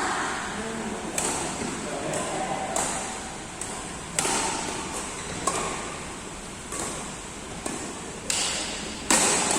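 Badminton rally: rackets striking the shuttlecock about nine times, at irregular gaps of roughly a second, each hit a sharp crack.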